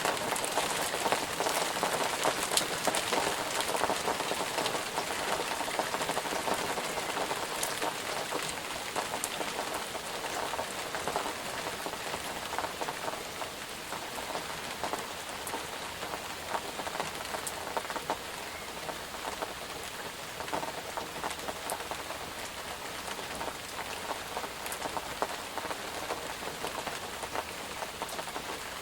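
Steady rain falling on a surface, a dense hiss with many individual drops pattering, slightly heavier in the first few seconds.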